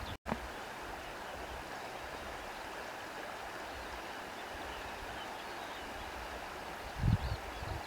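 Steady rushing outdoor ambience with faint birds chirping high above it. The sound drops out for a split second just after the start, and a brief low thump comes about seven seconds in.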